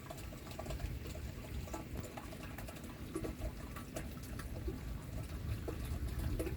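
Rainwater trickling and dripping, with scattered small drips ticking throughout.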